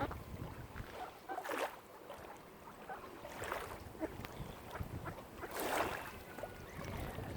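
Lake water lapping and splashing in soft surges every couple of seconds, with a low wind rumble on the microphone.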